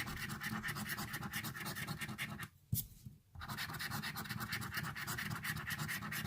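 Coin scraping rapidly over a lottery scratch-off ticket, rubbing off the latex coating in quick repeated strokes, with a brief pause a little past halfway.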